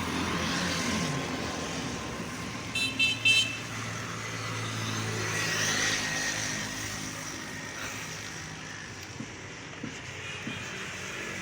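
Motorcycle horn giving a short stuttering beep about three seconds in, tested while its faulty wiring is being worked on, over steady road-traffic noise.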